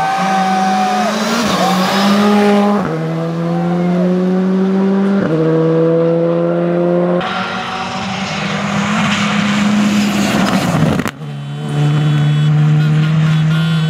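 Rally car engine at full throttle, its note climbing and dropping back at each upshift, three times in the first seven seconds. About eleven seconds in, the sound breaks off briefly, and the engine note then holds steady.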